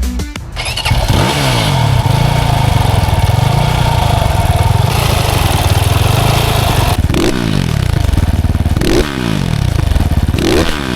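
Single-cylinder 300cc Cleveland Hooligan motorcycle engine running under way, with engine clatter. Near the end it revs up three times, rising in pitch each time before dropping back. A music track cuts off about half a second in.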